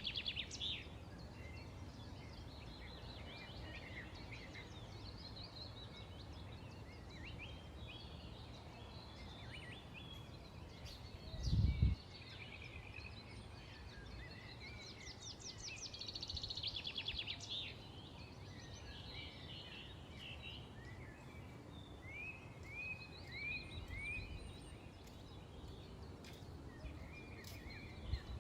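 Several small birds chirping, with quick trills and short downward-slurred chirps, over a steady low background hum. A single low thump, the loudest sound, comes about twelve seconds in.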